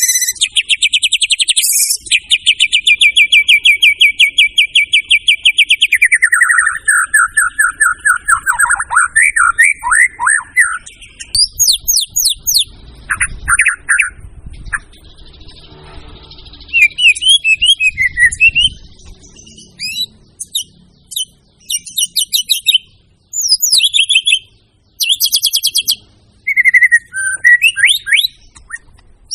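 White-rumped shama (murai batu) singing loudly and without a break: a long, very fast trill of repeated notes that shifts lower about six seconds in, then varied short whistled phrases, sweeps and chatters with brief pauses between them.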